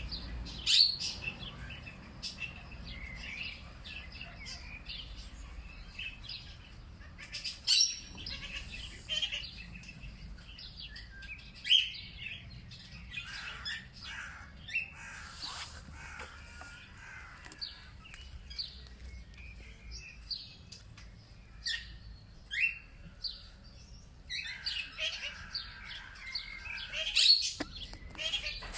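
Several small birds calling and chirping in short bursts, with a few louder chirps standing out now and then, over a low steady background rumble.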